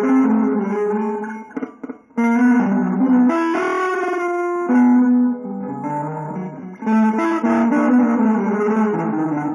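Guitar playing a line of single notes and chords. The playing breaks off briefly about two seconds in, then carries on.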